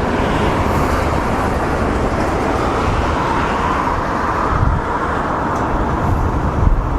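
Steady road-vehicle noise: a continuous rush with a low rumble of engines and tyres.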